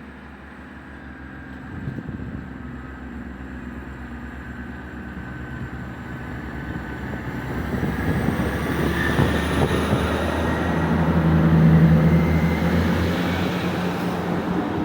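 Class 158 diesel multiple unit pulling away under power. Its diesel engines build in loudness to a peak about twelve seconds in, then ease off, with a thin rising whine as it gathers speed.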